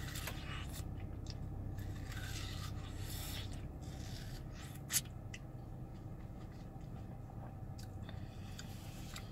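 Biting into and chewing watermelon: scattered wet crunches and small mouth noises over a steady low hum, with one sharper click about five seconds in.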